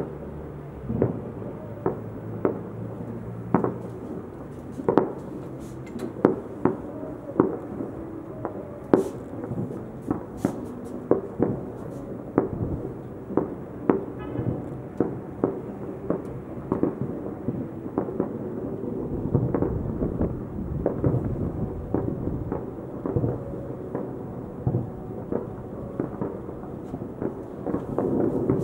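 Fireworks display: aerial shells bursting in a steady run of sharp bangs, about one to two a second, over a low rumble.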